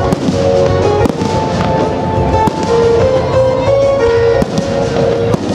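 Aerial firework shells bursting in a string of sharp bangs, over music with a held melody.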